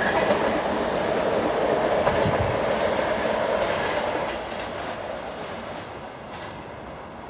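A train running past on the rails, its wheel and rail noise loud and steady for about four seconds, then fading away as it leaves.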